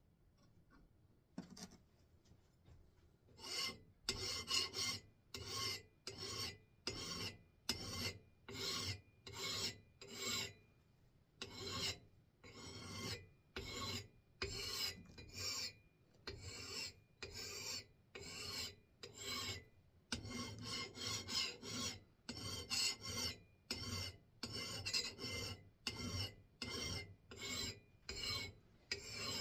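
Hand file rasping across the steel edge of an axe head clamped in a vise: steady back-and-forth strokes, about three every two seconds. They start a few seconds in, after a single light knock. The edge is being cleaned up with the file.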